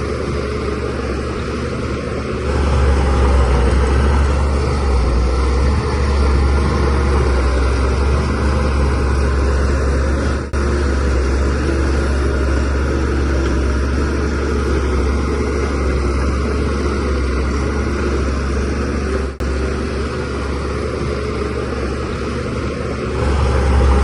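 Diesel engine of a DH17C3 crawler bulldozer running under load while it pushes soil. The engine gets louder about two seconds in, eases off a little near the end and then rises again. The sound drops out very briefly twice.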